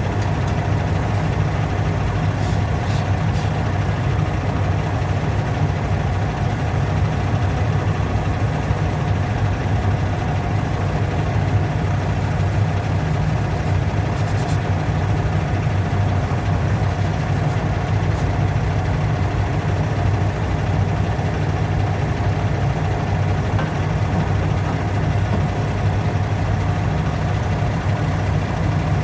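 A steady low mechanical hum, as of a motor running, with no change in pitch or level.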